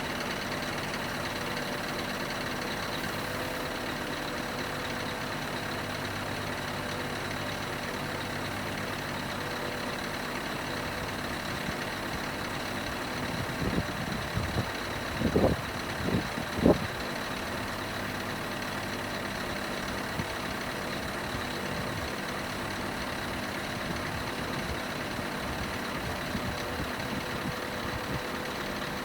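Scania R500 truck's V8 diesel engine idling steadily. A few loud knocks come about halfway through.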